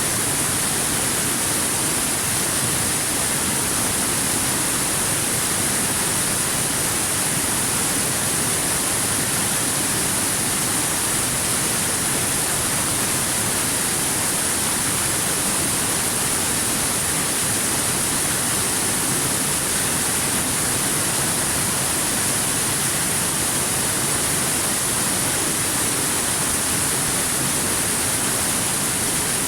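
Waterfall: a steady, unbroken rush of falling water, even in level throughout, with a strong high hiss.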